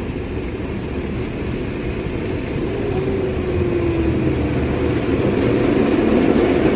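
Automatic car wash machinery working over the car, heard from inside the cabin: a steady rush and rumble that grows louder toward the end, with a faint whine gliding about three seconds in.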